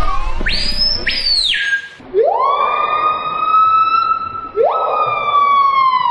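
A bird imitating a siren: a quick rising whistle to a high held note, then two long wails a little over two seconds apart, each sweeping up, holding and slowly sagging in pitch.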